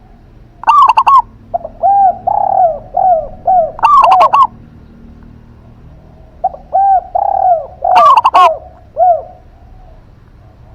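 Zebra dove and spotted dove cooing in two song phrases, each a run of quick rounded coos lasting about three to four seconds, with a few sharper, louder notes among them. The phrases come about a second in and again past the middle.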